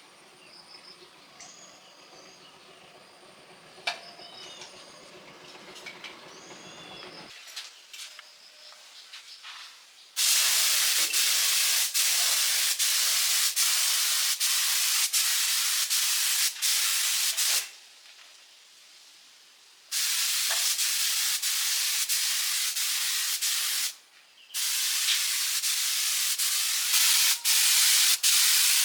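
Compressed-air spray gun hissing in three long bursts with short breaks between, starting about ten seconds in. Before that there are only faint clicks.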